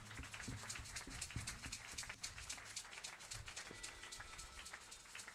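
A congregation clapping: a faint, dense, uneven patter of many hands clapping together, given as a clapping offering.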